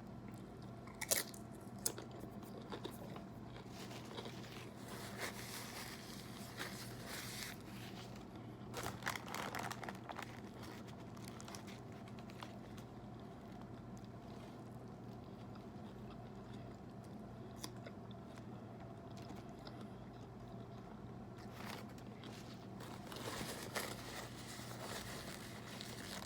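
Close-up biting and chewing of a tuna sandwich on wheat bread with lettuce, onion and bell pepper: crunching in bouts with pauses between.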